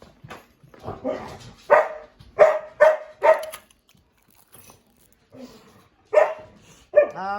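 Pet dog barking: a quick run of four barks, then one more bark a few seconds later.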